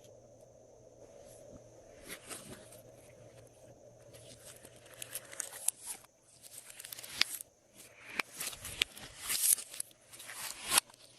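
Glossy slime being worked by hand: irregular sticky crackles and pops, sparse at first and coming thicker and louder from about halfway through.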